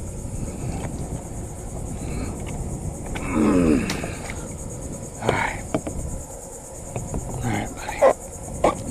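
Steady high-pitched insect chorus with a fine rapid pulse, over a low rumble of wind on the microphone. A man lets out a loud falling groan about three and a half seconds in, and a few short vocal sounds near the end.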